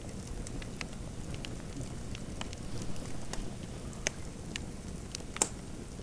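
Fireplace fire crackling: scattered sharp pops and snaps over a low steady rumble, with one louder pop near the end.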